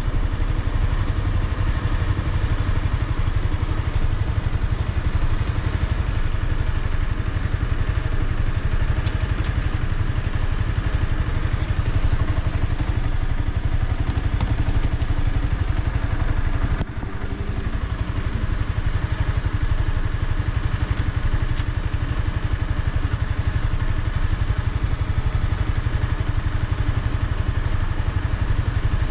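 Honda CBR300R's single-cylinder engine running steadily, with a short drop in level about seventeen seconds in.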